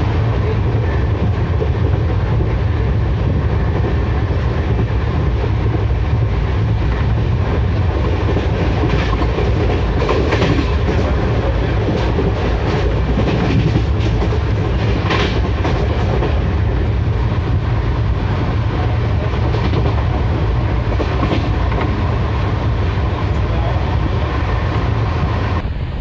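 Duronto Express passenger train running at speed: a steady, loud rumble of the moving coach, with scattered clicks of the wheels over rail joints.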